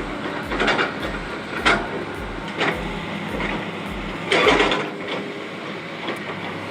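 Heavy machinery running with a regular low pulsing, broken by several sharp metallic clanks, the loudest about four and a half seconds in.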